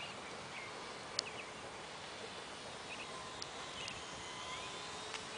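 Outdoor background hiss with scattered short bird chirps and a few sharp ticks, the loudest tick about a second in.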